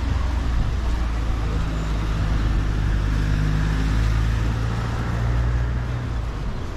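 Motor vehicle engine running close by, a low steady hum that fades near the end.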